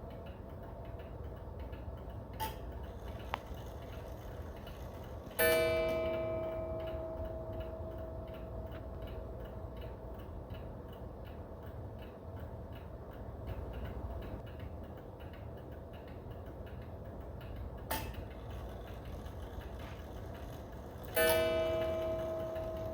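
Seth Thomas beehive mantel clock ticking steadily, striking twice, about five seconds in and near the end, each strike a single ringing tone that slowly dies away. A short click comes a few seconds before each strike.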